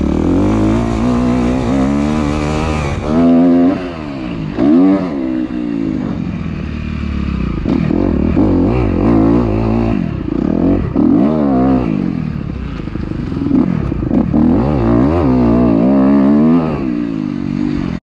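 Dirt bike engine revving up and falling back again and again as it is ridden around a motocross track. The sound cuts off suddenly near the end.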